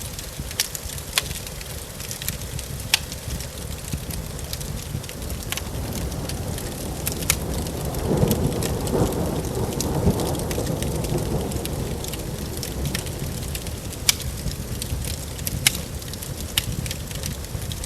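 Wood fire crackling in a fireplace, sharp pops scattered throughout, over steady rain. A roll of thunder swells about eight seconds in and dies away over a few seconds.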